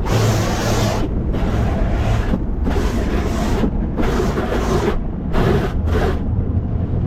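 Automatic tunnel car wash heard from inside the car: a series of rushing bursts of water and brushes passing over the body, each about a second long with short gaps, over a steady low hum.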